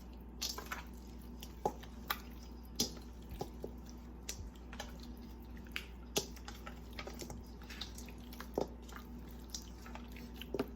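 Hands mashing and massaging raw chicken legs in an olive-oil seasoning paste: scattered wet squelches and smacks at irregular intervals.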